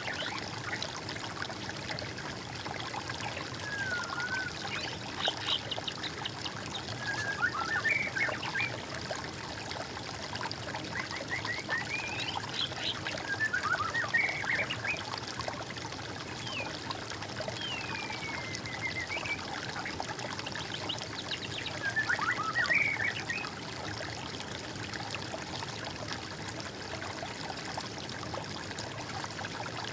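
Water trickling and running steadily, with songbirds singing short whistled and trilled phrases every few seconds over it, the birdsong falling away in the last few seconds.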